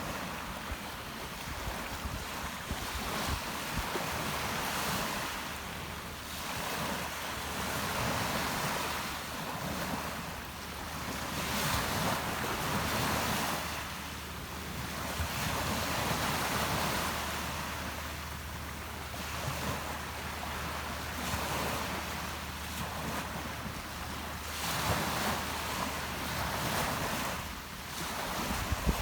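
Rough Mediterranean surf, a steady rush of waves that swells and ebbs every few seconds as they break on the shore, with wind buffeting the microphone.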